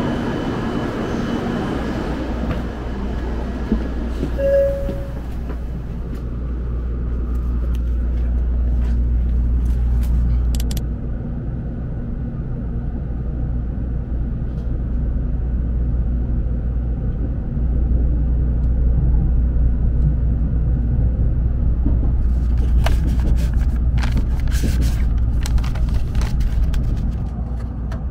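Steady low rumble of a Shinkansen train, heard on the platform and then inside the carriage, with a short pitched tone about four seconds in. Scattered clicks and rustles near the end, from plastic packaging being handled.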